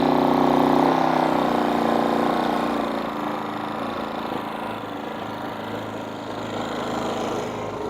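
Genmax GM3500Xi open-frame inverter generator running under load with an air compressor that has just started, plus 2,000 watts of lights, on it. A steady engine-and-motor hum, loudest for the first couple of seconds and then easing to a lower steady level.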